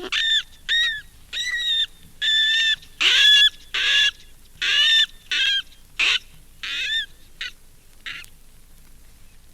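Brown rats squealing: a run of short, high-pitched squeals, roughly one or two a second, growing sparser and stopping after about eight seconds.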